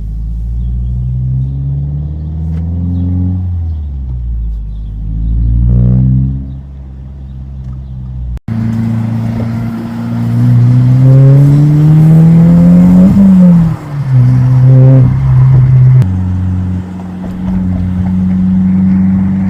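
2025 Subaru WRX tS's turbocharged 2.4-litre flat-four engine pulling through the gears: the revs climb, fall back at a shift, and climb again several times. The sound cuts out for an instant about eight seconds in, then comes a long climb in revs, a drop, and the engine settles at steady revs near the end.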